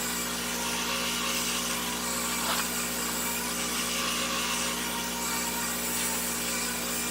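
Electric buffing machine running steadily at a slow speed, its pad rubbing buffing compound over a plastic headlight lens.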